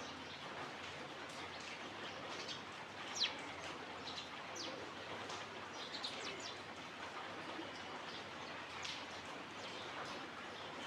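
Small birds chirping: short, high, falling chirps scattered irregularly, the sharpest about three seconds in, over a steady hiss of outdoor background noise.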